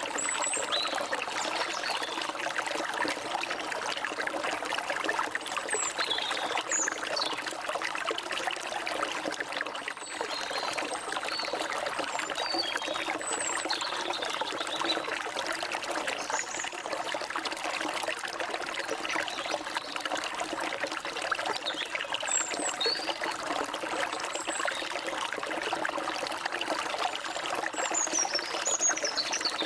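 A forest stream running steadily, with birds giving short high chirps and whistles now and then over the water.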